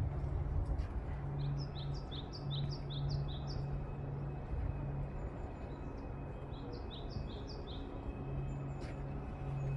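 A small songbird singing two phrases of quick, high, repeated chirps, about four notes a second, the second phrase shorter. Under it runs a steady low rumble of wind noise.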